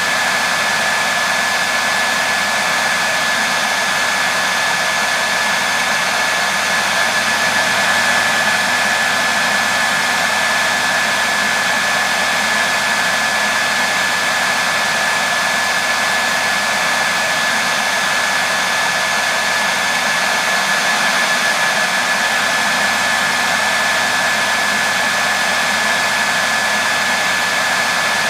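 Hair dryer running steadily: a constant airflow rush with a steady high whine from the motor, unchanging throughout.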